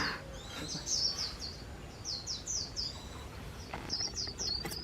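Several white-eyes calling and twittering together, with quick runs of short, high, down-slurred chirps repeated throughout.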